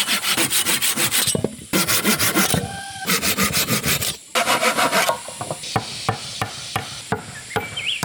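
A hand tool rasping on wood in fast, even strokes, in several runs with short breaks. In the last few seconds the strokes give way to scattered lighter knocks.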